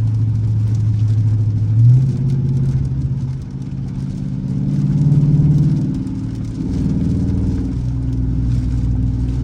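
Dodge Charger R/T's V8 engine running while driving, its note stepping up about two seconds in, swelling around five seconds and dropping back to a lower rumble near seven seconds.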